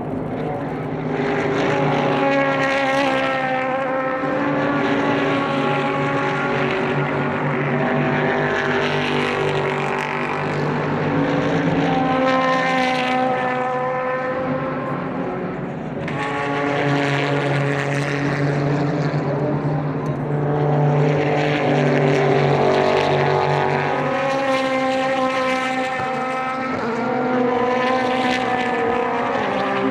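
Super GT race cars passing one after another, their engines running hard, with the pitch of each climbing and dropping as it goes by, so that the engine notes overlap without a break.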